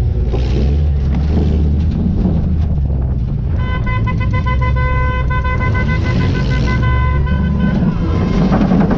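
Car engine running loudly with a deep, steady sound, and a horn sounding one long steady note for about four seconds in the middle.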